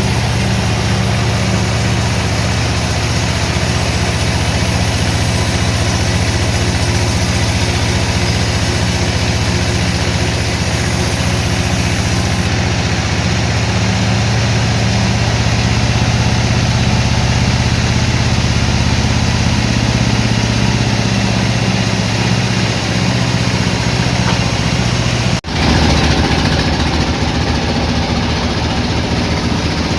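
Sawmill machinery running steadily with a low, even drone. The sound briefly cuts out about 25 seconds in, then carries on with a slightly different tone.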